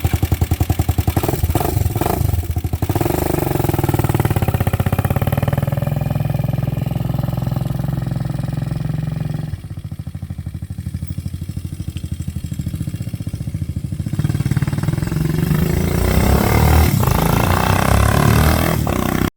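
Hawk 250 motorcycle's single-cylinder engine running under way on a test ride. It is loud at first, drops off about halfway through, then grows louder again toward the end as the bike comes back.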